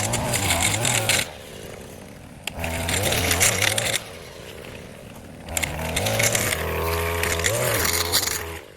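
Small gas engine of yard-clearing equipment revved in three bursts, dropping back toward idle between them, with a hiss of cutting through tall overgrown grass.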